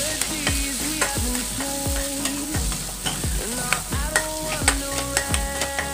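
Green gram paste frying in ghee in a nonstick kadai, sizzling steadily while a spatula stirs and scrapes it around the pan in repeated strokes, as the paste is roasted.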